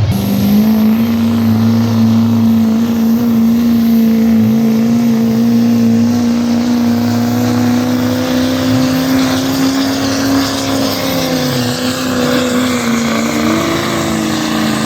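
Engine of a pulling truck or tractor held at full throttle through a pull, a loud steady note whose pitch climbs slowly and then drops near the end as it comes off the throttle.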